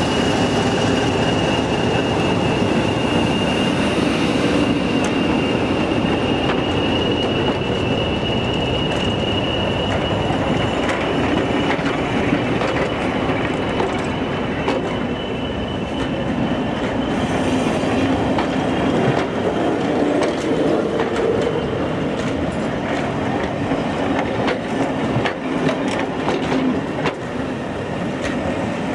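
Diesel-hauled passenger train passing close by: the locomotive's engine at first, then the coaches rolling past with wheel clatter over the rail joints. A thin, steady, high-pitched wheel squeal carries through the first half and fades out around the middle.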